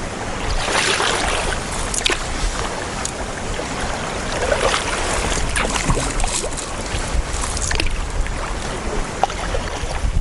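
Water splashing around a canoe in choppy water, with irregular splashy paddle strokes every second or two over a steady rush of wind and water.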